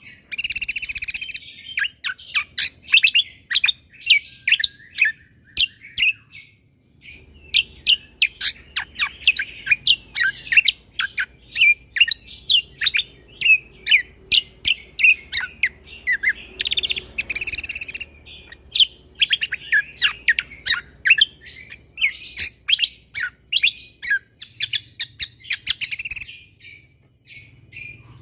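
Cucak kombo (kecial kombo) songbird singing in its full, active form: long, dense runs of quick, sharp chirping notes fired off in rapid succession, broken by only a couple of brief pauses.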